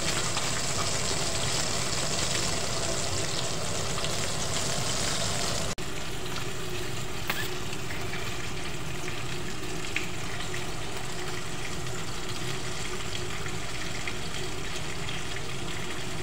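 Breaded chicken pieces frying in hot oil in a pan, a steady sizzle. About six seconds in it breaks off for an instant and carries on duller, with a couple of light clicks.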